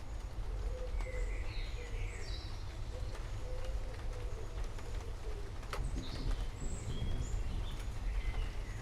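Several forest birds chirping and trilling in short, high phrases over a steady low rumble and soft hiss. A lower, wavering call runs through the first half, and there is one sharp tick about six seconds in.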